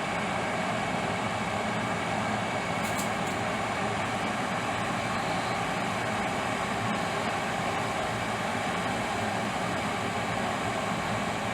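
MegaChef electric glass kettle heating its water toward the boil: a steady rushing hiss of rising bubbles, with a couple of faint high ticks about three seconds in.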